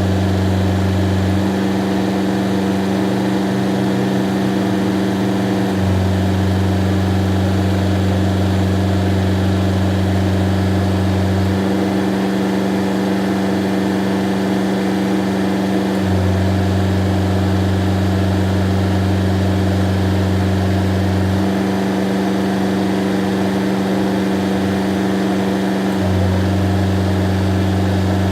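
Kubota GL367 tractor's diesel engine running steadily with the cab air conditioner on, played back at double speed. The low hum shifts in tone every four to five seconds.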